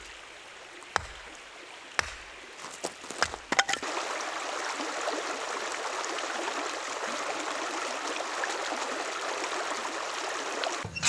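A few light knocks and clicks, then water running steadily for about seven seconds, starting and stopping abruptly.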